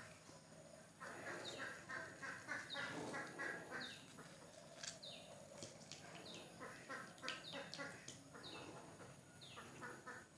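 Faint bird calls: many short, falling chirps mixed with runs of quick repeated notes.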